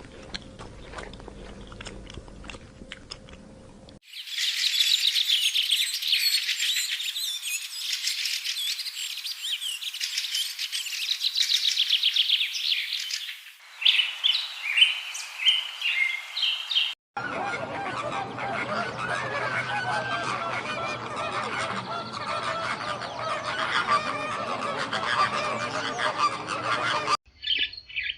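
Bird calls in several clips cut together: dense, high chirping and twittering for the first half, then lower, fuller honking calls, with high chirps again near the end.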